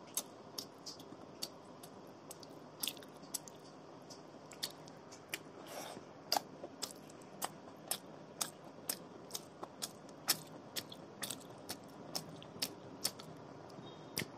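A person chewing a hand-eaten mouthful of rice and curry close to the microphone, the mouth smacking in a run of short, sharp clicks about two a second.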